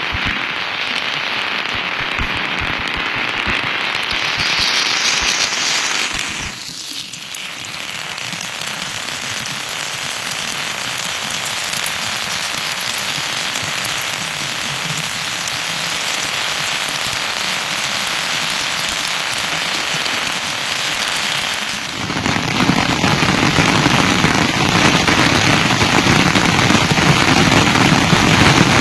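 Steady rain falling, a dense even hiss of drops with no break. Twice the sound changes abruptly, about a third of the way in and again near the end. The later stretch is louder and deeper, like heavier rain or drops on a different surface.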